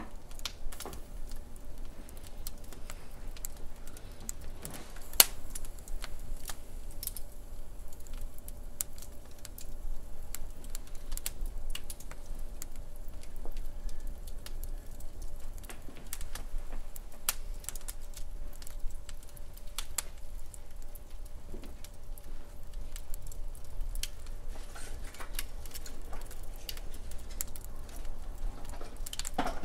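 Wood fire in a fireplace crackling, with irregular sharp pops and snaps over a low steady rumble of the flames; one pop about five seconds in is louder than the rest.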